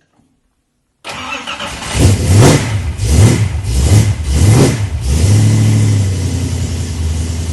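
A race-built Ford small-block V8 (a 302 stroked to 347) starting up about a second in, blipped sharply four times, then settling into a steady idle.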